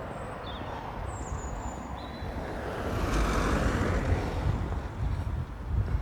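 A road vehicle passing, its tyre and engine noise swelling to a peak about halfway through and then fading, with wind rumbling on the microphone. A few faint high chirps early on.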